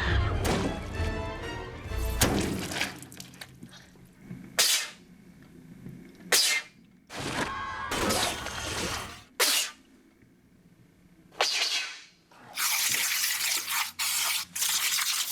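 Wet chamois cloths squished and dropped as Foley for gore, making a series of separate wet splats and squelches. Near the end comes a steady, loud, noisy stretch lasting a couple of seconds.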